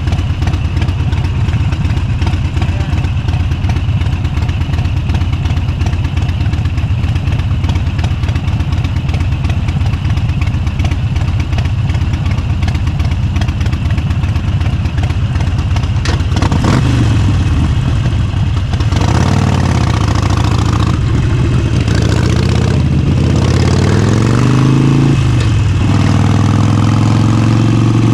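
Motorcycle engine idling steadily, then pulling away about 16 seconds in, revving up and shifting through several gears, its pitch climbing and dropping back at each shift before settling into a steady cruise near the end.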